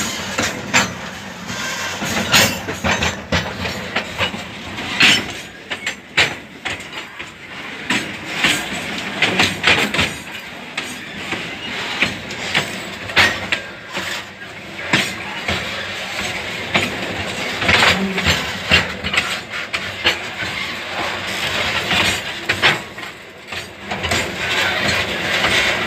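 Model railway freight train running on its track during shunting moves. Irregular clicks and knocks from the wheels and wagons run over a steady running noise.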